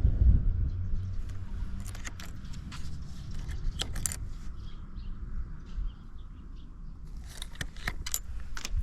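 Early Honda Motra's small four-stroke single-cylinder engine running, dropping from a louder rev in the first second to a quieter idle. Scattered sharp clicks sound over it throughout.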